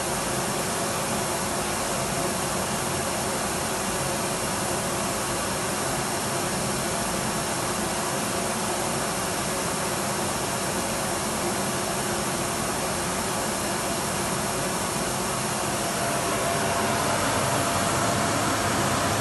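Electric vacuum cleaner running steadily with a continuous motor-and-airflow noise. About 16 seconds in it gets slightly louder, with a faint steady whine.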